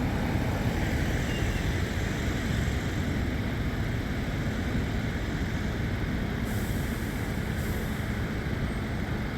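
Road traffic: vehicle engines and tyres making a steady, continuous noise, with no single distinct event standing out.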